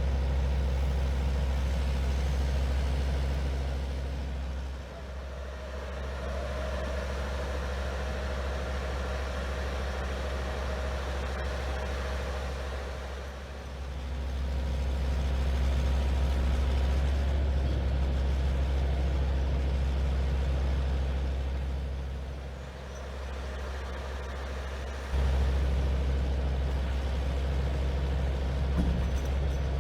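Heavy diesel truck engine running steadily with a deep drone, its level swelling and easing several times, then stepping suddenly louder about 25 seconds in.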